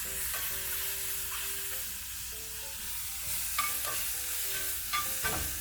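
Steak, garlic and mushrooms sizzling in a cast-iron pan over a wood fire: a steady hiss with a few sharp pops and crackles in the second half.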